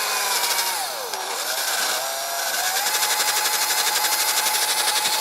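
Electric drill spinning a cleaning attachment against an aluminum piston top to clear carbon. Its whine sags in pitch about a second in as it bears on the work, then climbs back and runs steady.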